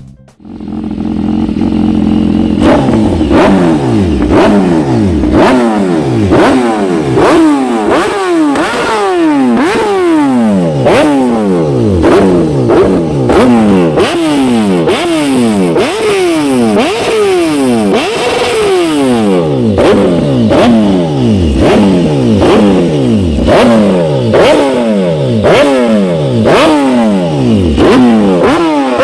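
BMW S1000RR inline-four sport bike engine through a Spark aftermarket exhaust, idling for a moment and then revved in quick throttle blips about once a second, each a sharp rise in pitch followed by a falling glide back toward idle.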